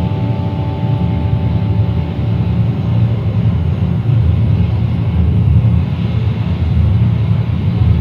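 Dense, steady low rumbling noise drone, part of a noise-music piece. The held guitar tones fade out in the first moment.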